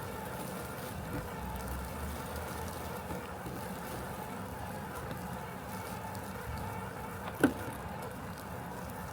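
Robotic lawn mower running with a steady hum. A single short, sharp sound stands out about seven seconds in.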